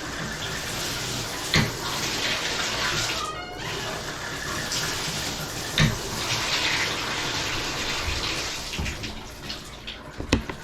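Shower running with the Delta tub spout's diverter engaged, water spraying steadily, with a couple of short knocks. This is the noise the owner wants to cure by replacing the diverter spout.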